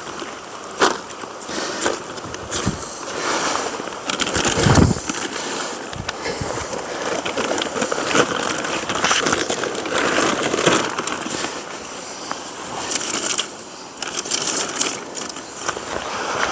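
Rustling and handling noises with scattered sharp clicks and cracks, as of sticks and kindling being snapped and laid for a campfire, and a louder scraping rustle about four to five seconds in.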